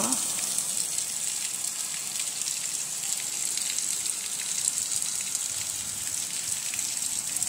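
Heavy rain pouring down onto a cobblestone street, a steady hiss.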